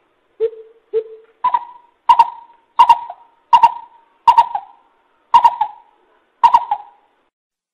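A coucal calling: a series of short, hollow notes, about one every 0.7 seconds. The first three are low, and the rest jump to a higher pitch about a second and a half in.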